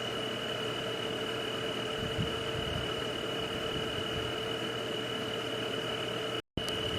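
Steady night-ambience noise: an even hiss with two constant tones, one high and one lower, unchanging throughout. It cuts out to silence for a split second about six and a half seconds in, then resumes.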